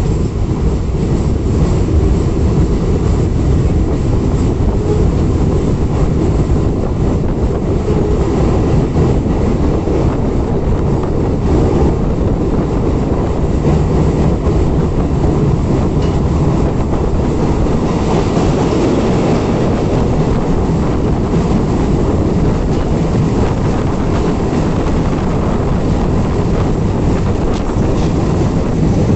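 Train running on the rails, a steady noise of wheels and carriages with no break.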